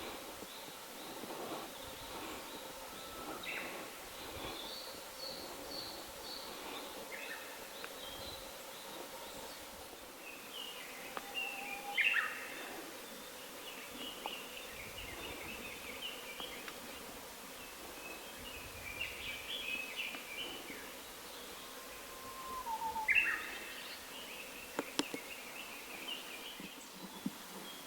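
Wild songbirds calling and chattering over a steady background hiss. The loudest calls are short notes sweeping downward in pitch, one a little before halfway through and one near the end.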